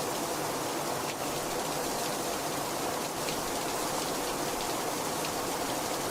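Heavy rain falling steadily, a dense even hiss with faint individual drop ticks scattered through it.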